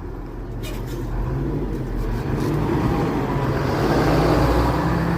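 A motor vehicle passing close by, its engine and tyre noise growing steadily louder.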